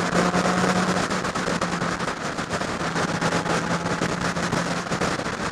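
Motorcycle riding along with its engine running steadily, under wind rushing and buffeting on a helmet-mounted microphone.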